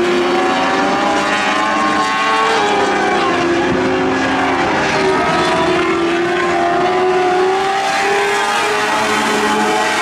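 A pack of Lightning sprint cars racing on a dirt oval, their 600cc motorcycle engines running at high revs together. Several engine pitches overlap, each rising and falling as the cars lap.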